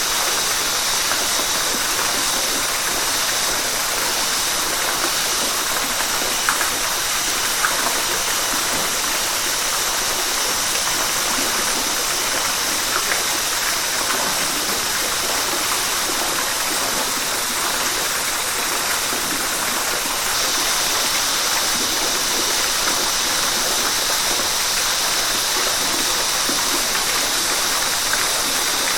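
River water rushing steadily over rocks, an even hiss with a few brief splashes now and then.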